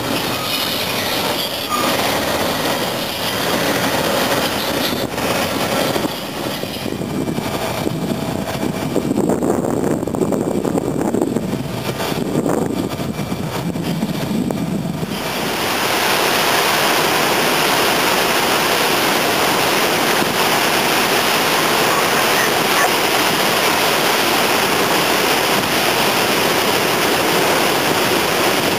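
CSX freight train rolling past with its diesel locomotives running, the rumble rising and falling. About fifteen seconds in it cuts off suddenly to the steady rush of a large waterfall.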